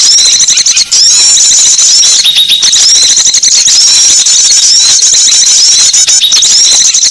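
Dense, rapid, high-pitched chirping of many small songbirds overlapping without pause, a recorded bird-lure call used to attract small birds. Short chirps follow one another several times a second, with a brief dip a little under a second in.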